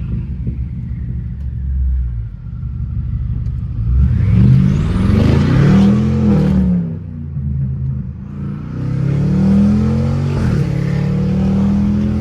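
BMW 550i twin-turbo V8 with catless downpipes and a straight-piped exhaust, running at light throttle, then pulling hard about four seconds in with the revs climbing and falling back. A second pull starts near eight seconds, the revs dropping once at a gearshift and then climbing again.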